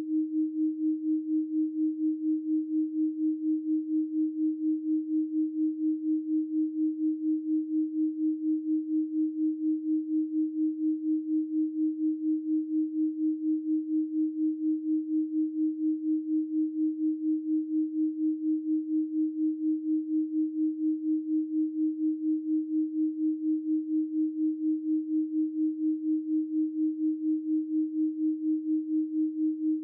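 A steady electronic pure sine tone at 312 Hz, held unbroken, with a fast, even pulse in its loudness.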